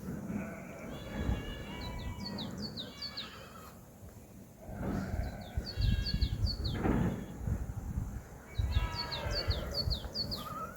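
Birds chirping in three bursts of quick, falling chirps, over a low rumble.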